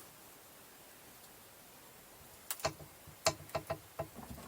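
Quiet at first, then from about halfway in a run of short sharp clicks and taps, irregularly spaced, from hand tools being worked on a stuck fastener of a jet ski engine.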